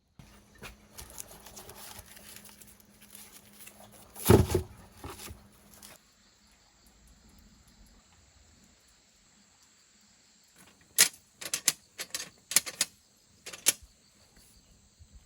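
Clinks and knocks of cooking gear being handled: one loud knock about four seconds in, then a quick run of sharp clicks near the end.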